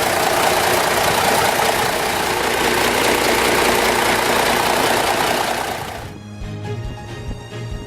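Diesel engine of an M925A1 5-ton military truck (Cummins NHC-250 naturally aspirated six-cylinder) running loud with a hissing rush, over background music. About six seconds in the engine sound drops away and only the music is left.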